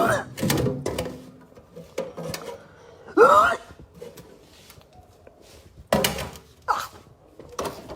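Knocks and clatter of things being handled, with short wordless vocal sounds from a person near the start and about three seconds in.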